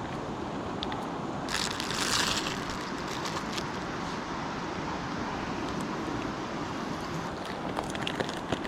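Wood campfire crackling with scattered sharp pops near the end, over a steady rushing background noise, with a short hiss about a second and a half in.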